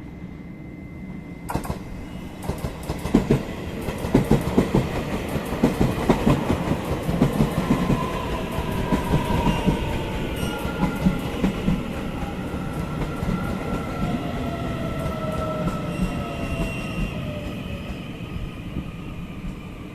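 Train passing close on the tracks, its wheels clattering over the rail joints. The rumble starts suddenly a second or so in and is heaviest for several seconds, and partway through a few whining tones slide down in pitch.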